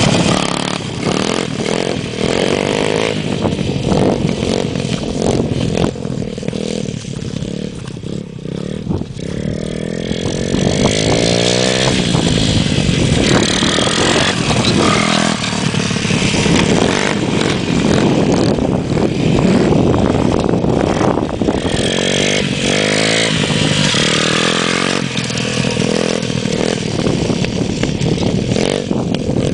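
Motocross bike engine running and revving, its pitch rising and falling repeatedly.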